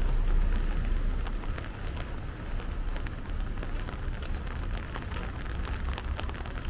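Steady rain falling, with many short close drop ticks through it over a low rumble that is loudest in the first second or so.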